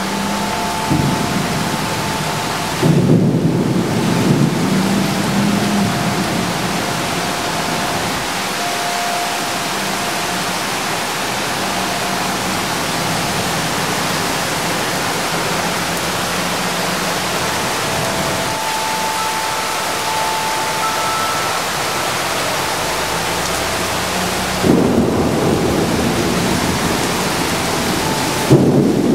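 Heavy rain pouring steadily in a thunderstorm. Louder low rumbles swell about three seconds in and again near the end.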